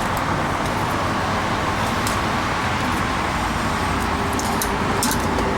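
Steady background noise, a low rumble with hiss, with a few faint light clicks.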